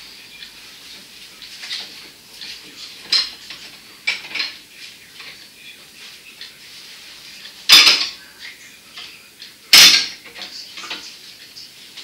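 Light clinks and clatter of hard objects, with two loud sharp knocks about two seconds apart in the second half.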